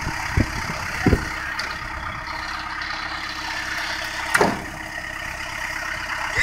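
Truck engine idling steadily, with a few short knocks and clunks, the sharpest about four and a half seconds in.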